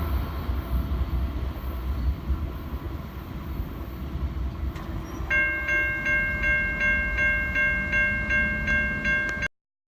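Freight train cars rolling past with a low rumble. About five seconds in, a grade-crossing bell starts ringing rapidly, about two or three dings a second, over the passing train, until the sound cuts off suddenly.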